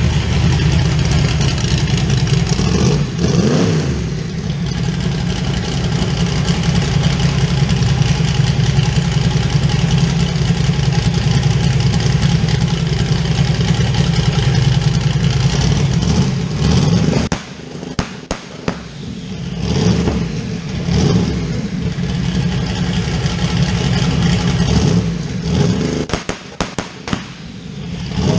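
Car engine running loudly at a steady idle, with a brief rev about three seconds in. From about seventeen seconds in the engine note drops away and comes back several times as it is blipped.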